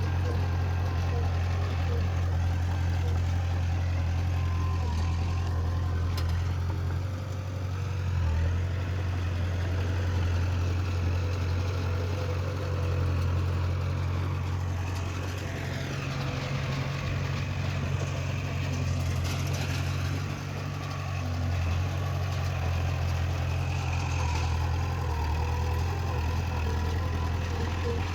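Heavy diesel earthmoving machinery running steadily with a strong low drone. The engine note dips briefly twice.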